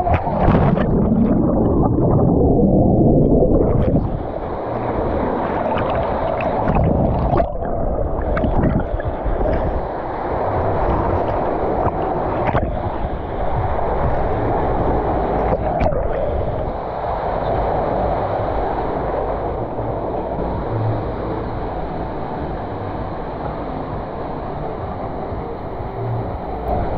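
Water rushing and splashing as a rider slides down a tube waterslide, a steady loud rush with a few short knocks and splashes along the way.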